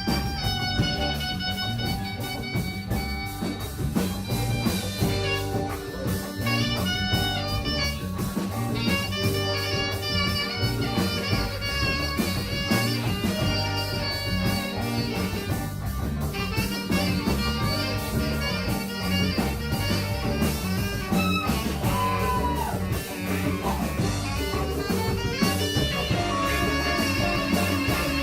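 A band playing, with electric guitar over a drum kit: held, ringing guitar notes and lines above a steady beat.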